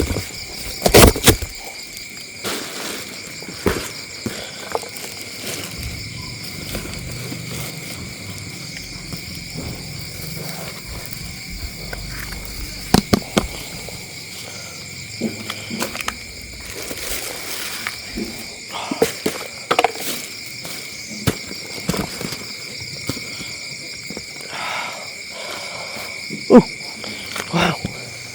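Steady chorus of crickets at night, with scattered sharp clicks and cracks on top.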